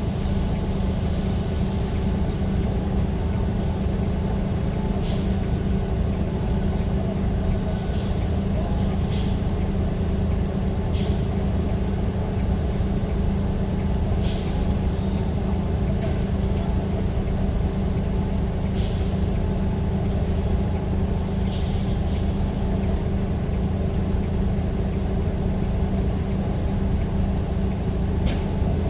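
A vehicle running steadily with a low engine hum, broken by short hisses every few seconds.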